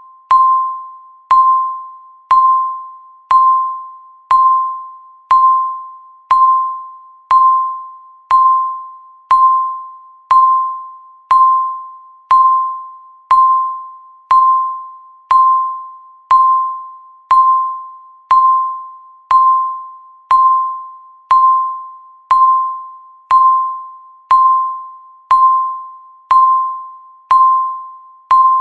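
Electronic countdown-timer beep sounding once a second: a single clear ping with a sharp start that fades away before the next, repeated evenly throughout.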